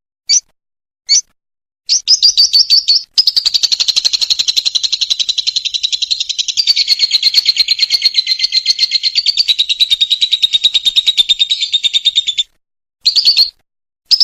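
Lovebird giving a few single chirps, then, about two seconds in, a long, very fast chattering trill (the 'ngekek' song) lasting about ten seconds; it breaks off and comes back in short bursts near the end.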